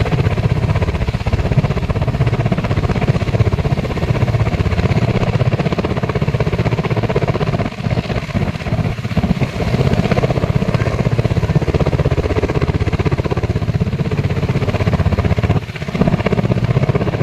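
Army helicopter running, its rotor blades chopping in a rapid, steady beat over engine noise. The sound dips briefly twice, about eight seconds in and near the end.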